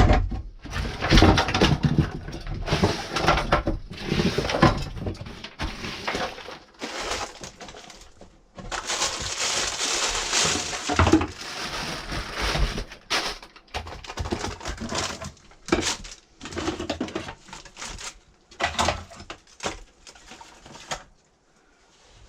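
Debris being cleared out of a wrecked RV: irregular clattering, knocks and crunches of junk being shoveled and tossed, with a longer scraping stretch midway, stopping shortly before the end.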